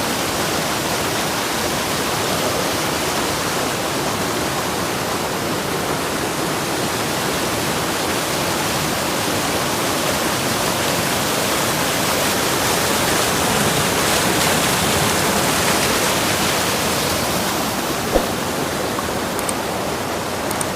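River water rushing and splashing in a steady, unbroken noise, with one brief knock about eighteen seconds in.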